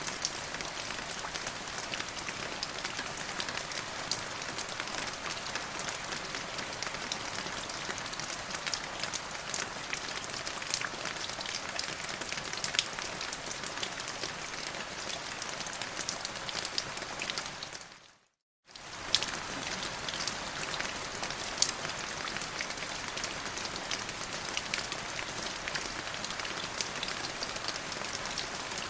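Steady rain falling on a surface, with many distinct drop hits. About eighteen seconds in, it fades out to a moment of silence and then comes straight back.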